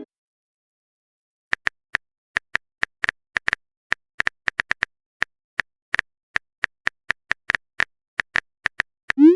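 Phone keyboard typing sound effect: an irregular run of short taps, starting about a second and a half in.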